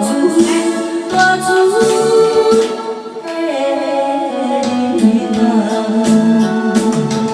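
A song: a singing voice holding long, sliding notes over instrumental backing with a steady beat.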